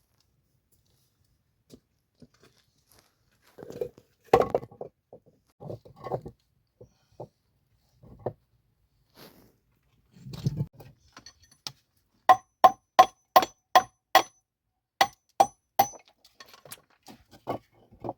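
Scattered knocks and handling noises, then a run of about nine sharp, ringing taps at two to three a second, with a short pause in the middle and a few fainter taps near the end.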